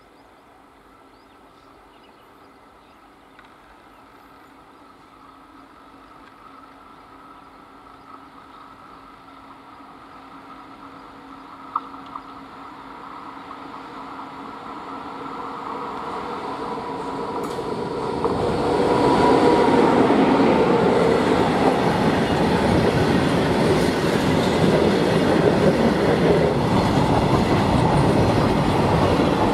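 A WAG-9H electric locomotive hauling a loaded freight train approaches, growing steadily louder. About eighteen seconds in it draws level, and the covered freight wagons then roll past close by with a loud, continuous clatter of wheels on the rails.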